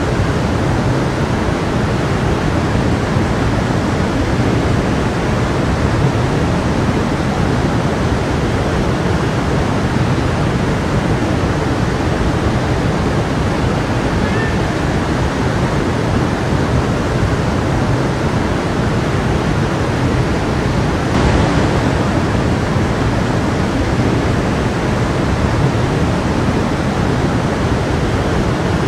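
A stream of water flowing with a steady rushing noise.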